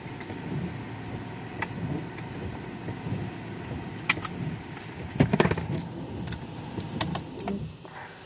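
Rain on a car with a steady noisy rumble, broken by scattered sharp taps and a rattling cluster about five seconds in; the rumble drops off near the end.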